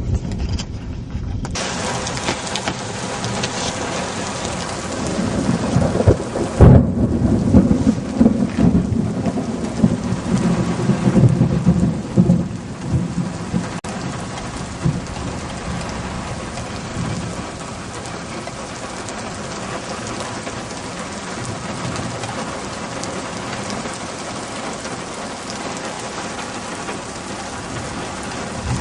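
Heavy rain falling steadily, its hiss growing suddenly louder about a second and a half in. A thunderclap cracks about seven seconds in and rumbles on for several seconds before fading.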